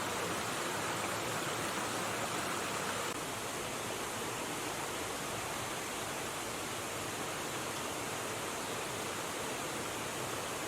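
Steady rush of flowing river water, dropping slightly in level about three seconds in.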